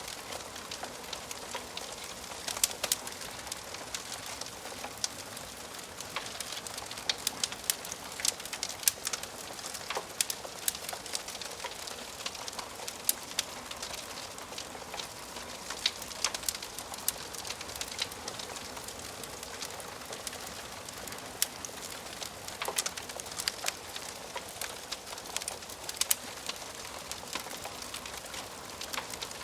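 Wood fire crackling in a fireplace: a steady soft hiss with frequent sharp pops and snaps of burning wood.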